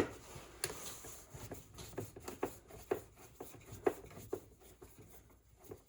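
Scattered light clicks and taps of tools and hands working on a Bissell floor scrubber's plastic parts during disassembly, with a sharper click right at the start.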